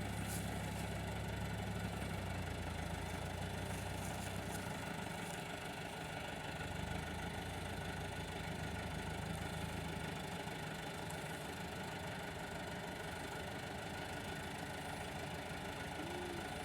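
Massey Ferguson 385 tractor's diesel engine running steadily at a low, even speed.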